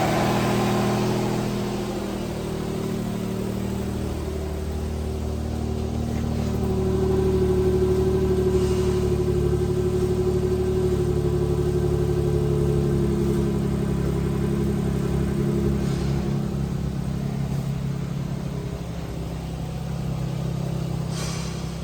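2012 Infiniti EX35's 3.5-litre V6 engine running steadily at idle, getting somewhat louder for several seconds midway before settling again.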